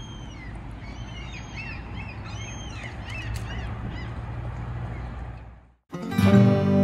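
Birds calling in many short arching cries over a steady low hum. The sound fades out about five and a half seconds in, and acoustic guitar music starts strumming just before the end.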